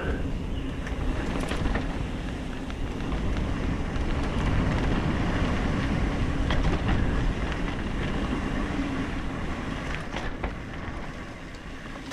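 Mountain bike rolling over a dirt singletrack trail: wind rushing over the microphone, tyres on the dirt and the bike rattling, with scattered small clicks and knocks.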